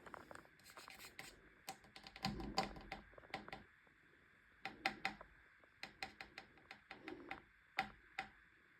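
Irregular light clicks, taps and scratches of a cat's claws and paws on a hard floor as it plays and scampers.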